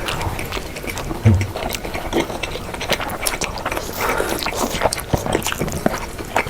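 Close-miked crunching and chewing of fried chicken wings: dense irregular crackling clicks, with a short low thump about a second in.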